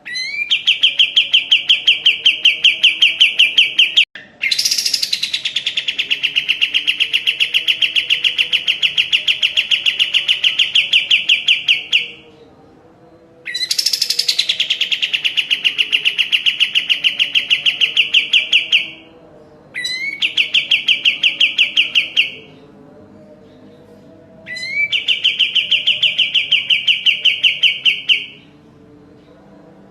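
Kapas tembak songbird singing long, very rapid rattling trills. There are five bursts, each several seconds long and opening with a quick upward note, separated by short pauses.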